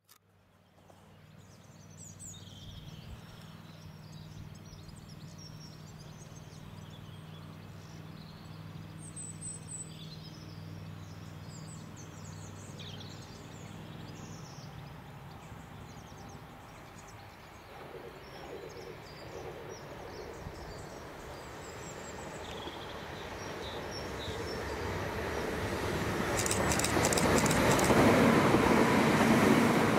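A Southern Class 377 electric multiple unit approaches and passes at speed. Its rumble builds over about ten seconds to a loud peak near the end, with rapid clicking of wheels over the rail. Earlier, birds chirp against a steady low hum.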